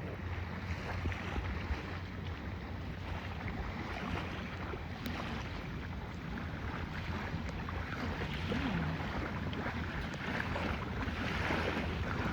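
Steady wind noise and water sounds over a low, steady hum.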